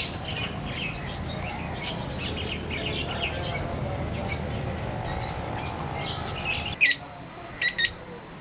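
Birds chirping and chattering in many short calls over a low steady rumble; the rumble stops about seven seconds in, and three loud sharp chirps follow close together near the end.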